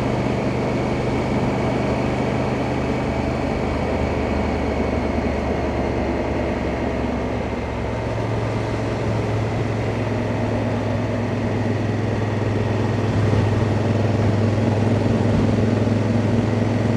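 Honda Africa Twin's parallel-twin engine running steadily under way, with wind and road noise; the engine note changes about halfway through and grows a little louder near the end.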